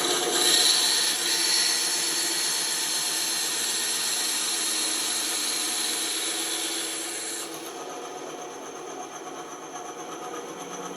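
Band saw cutting wood: a steady motor hum under the hiss of the blade through the wood. The cutting noise drops away about seven seconds in while the saw keeps running.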